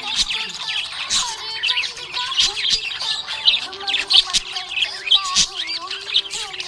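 Budgerigars chirping and warbling without pause: many short, overlapping chirps and quick pitch glides.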